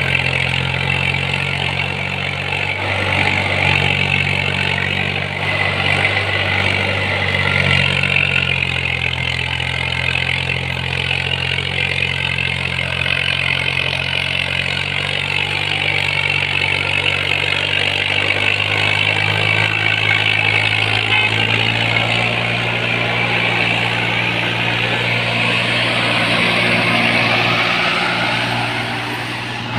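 Swaraj 855 FE tractor's three-cylinder diesel engine running steadily under the load of a fully loaded trolley, its note shifting about two-thirds of the way through.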